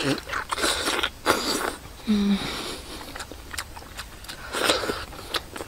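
Close-up eating sounds of a person biting into and chewing a cooked duck egg: a run of short wet smacking and chewing noises, with a brief low hum from the eater about two seconds in.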